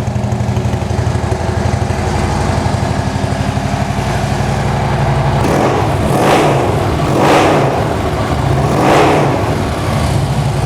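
Harley-Davidson Road King's 103 cubic inch V-twin idling through aftermarket slip-on mufflers. It is revved three times, about six, seven and nine seconds in, and drops back to idle after each.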